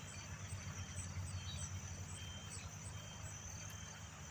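Outdoor ambience of insects chirping: a steady high trill with regular pulses about twice a second, over a steady low hum of distant machinery or traffic.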